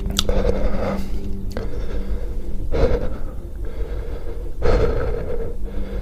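A person breathing hard into a close microphone, with three loud gasping breaths about two seconds apart, as from the burn of extremely spicy peanuts.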